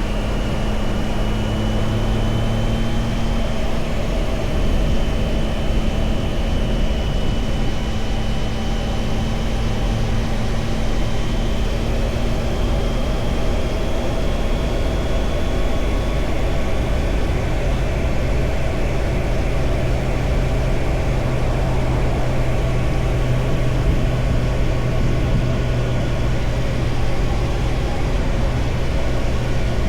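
Triumph Tiger Sport 660's three-cylinder engine running steadily while riding. Its note holds even, with the low tone shifting about halfway through.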